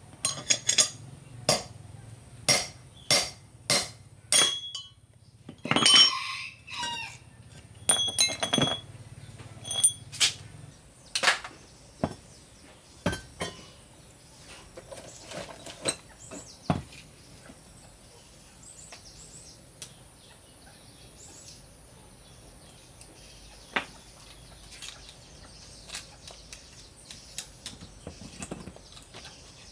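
Metal tools striking metal parts: about a dozen sharp, ringing taps and clinks in the first ten seconds, then occasional lighter clicks, with a low hum that stops about ten seconds in.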